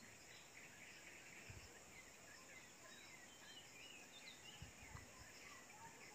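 Near silence: faint birds chirping now and then in the background, with a few soft low knocks.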